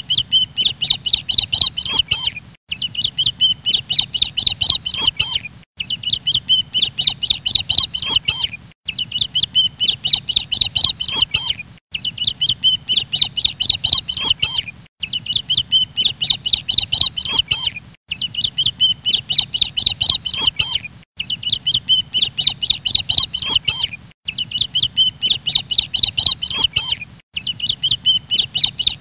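Birds chirping quickly and repeatedly in a short recording that loops about every three seconds. Each loop cuts off abruptly in a brief dropout before starting again.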